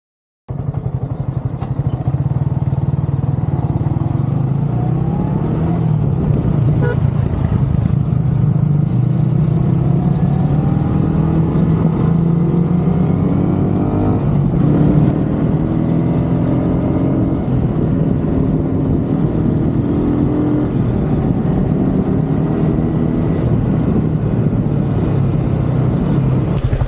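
A vehicle engine running while on the move, its pitch rising again and again as it accelerates.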